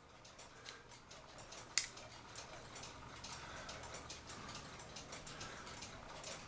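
Small metal clicks of a tool working on an August Schwer cuckoo clock movement, with one sharp snap about two seconds in as the E-clip is pried off its shaft.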